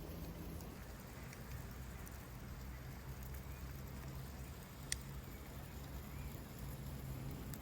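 Wood fire crackling over a steady low rumble, with faint scattered ticks and one sharp pop about five seconds in.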